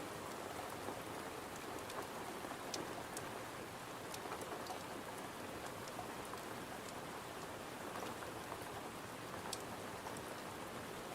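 Steady rain falling against a window, an even hiss with scattered sharp little ticks.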